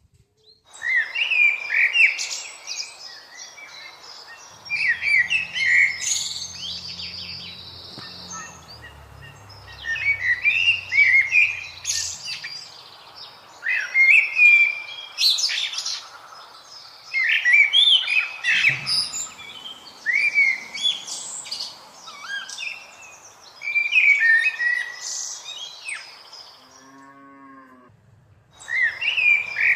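Birds singing in bursts of quick chirping phrases every few seconds. Low, drawn-out cow mooing lies under them from about five to twelve seconds in.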